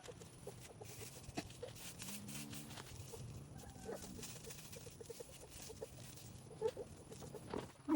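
Short, repeated animal calls over a faint background hiss, with a few soft clicks.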